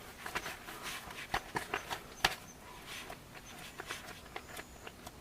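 Hands kneading flour dough: irregular soft slaps and taps, with one sharper knock a little past two seconds in.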